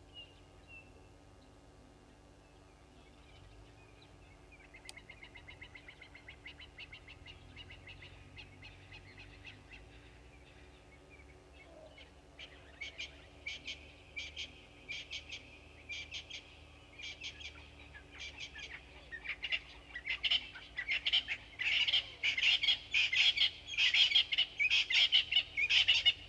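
Birds calling: a faint quick run of notes starts a few seconds in, then, from about halfway, loud harsh calls repeated in rapid series build into a loud chorus toward the end.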